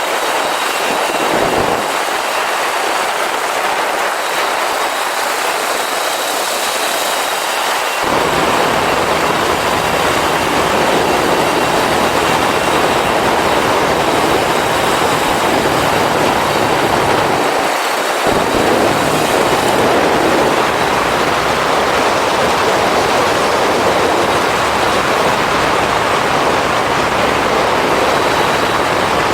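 Motorcycle on the move: a steady rush of wind noise over the microphone with the engine running underneath. About eight seconds in it gets louder and deeper, as from a rise in speed, and it dips briefly near the middle.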